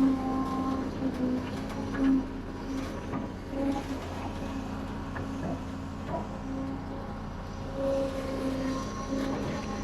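Heavy diesel construction machinery, such as an excavator, running steadily, its engine drone swelling and easing under load, with occasional short knocks.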